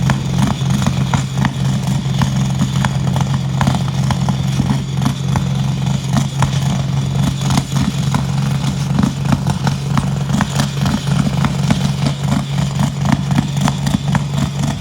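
Modified pulling tractor's engine held at a steady high speed under load during a pull, with a rapid irregular crackle over it.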